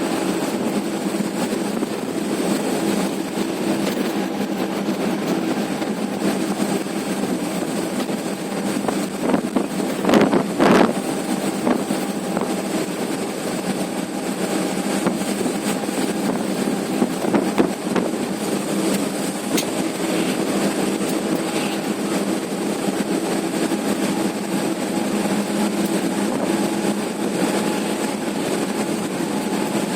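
Truck travelling at highway speed: a steady engine and road drone, with a brief louder burst of noise about ten seconds in and a smaller one a little before eighteen seconds.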